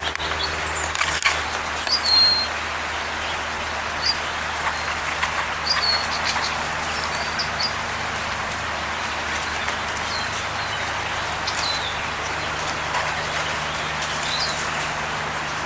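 Small songbirds chirping in short, high calls, scattered through, over a steady outdoor hiss, with a single sharp click about a second in.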